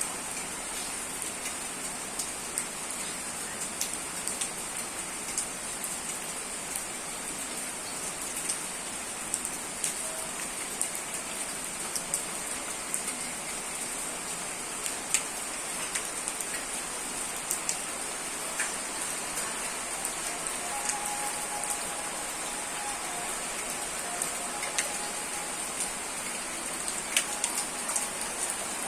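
Steady rain-like hiss with many scattered sharp ticks like drops, and a high steady band of hiss throughout. About two-thirds of the way through, a faint held tone comes and goes.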